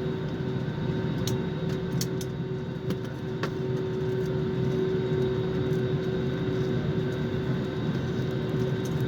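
Steady running noise heard from inside a vehicle: a low rumble with a constant hum over it and a few faint clicks.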